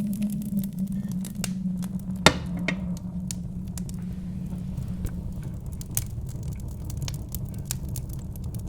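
Wood fire in a fireplace crackling with scattered sharp pops, one loud pop a little over two seconds in, over a steady low rush of wind.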